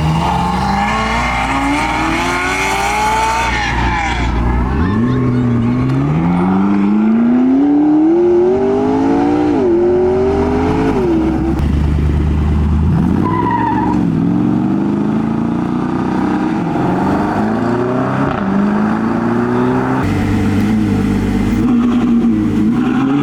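High-performance car engines accelerating hard. The revs climb in pitch, then drop at each gear change, several times over.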